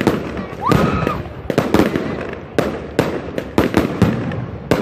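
Fireworks display heard at close range: mortars firing and shells bursting overhead in a rapid series of sharp bangs, about a dozen in under five seconds.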